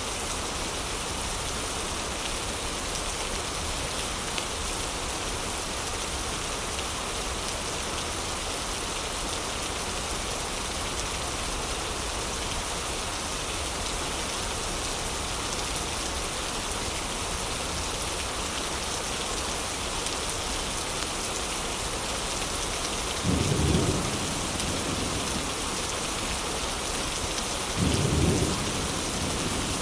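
Heavy rain falling steadily, with two short low rumbles about a second long, around five seconds apart near the end.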